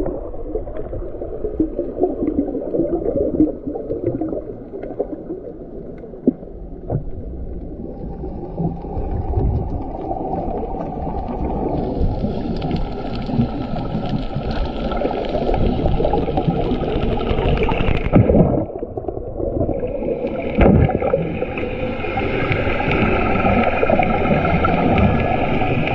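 Muffled underwater sound during a scuba dive: continuous churning, gurgling water noise. A steady higher whine joins about twelve seconds in, drops out briefly, then returns.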